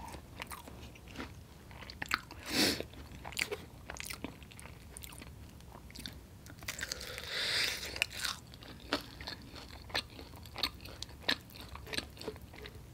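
Close-up chewing and biting of sauced fried chicken wings: scattered wet mouth clicks and smacks, with one louder bite about two and a half seconds in.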